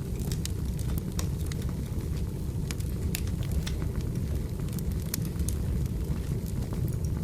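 Firewood burning: a steady low rush from the fire with scattered sharp crackles and pops from the wood, several a second.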